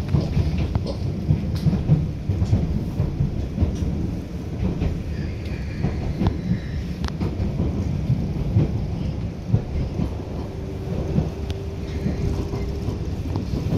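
Passenger train rolling out of the station, heard inside the carriage: a steady low rumble of wheels on rail, with frequent clicks and knocks as the wheels cross rail joints and points.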